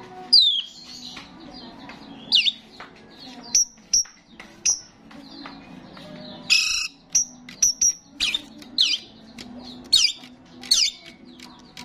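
A starling chattering: a string of short whistled notes and quick falling squeaks, with one loud harsh rasping call about six and a half seconds in, over a faint steady low hum.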